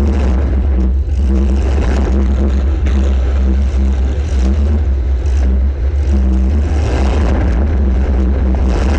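Welded compact demolition-derby car's engine running hard, heard through the car's onboard camera as a loud, bass-heavy drone whose engine note comes and goes as the throttle changes.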